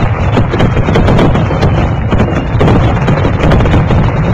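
Fireworks display: a dense, loud barrage of overlapping bangs and crackles over a continuous rumble.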